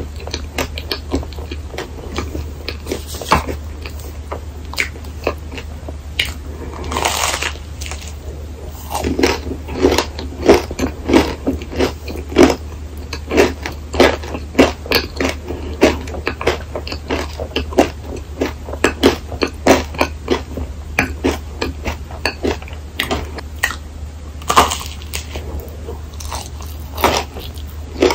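Close-miked eating of a crisp rice-flour waffle filled with whipped cream: a long run of quick crunching chews, with louder crunches about seven seconds in and again near the end. A steady low hum sits underneath.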